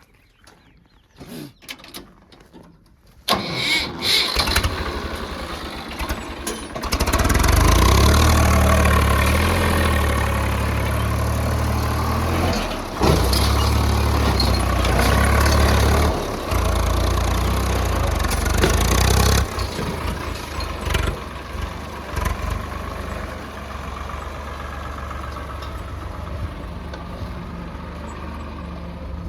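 A few light knocks, then a diesel engine starts about three seconds in. It runs loud and steady for about twelve seconds, then settles to a quieter, steady idle.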